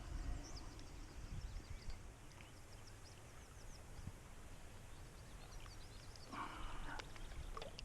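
Small birds chirping in the background, many short high calls, over a low rumble of wind on the microphone; a brief rush of noise about six and a half seconds in.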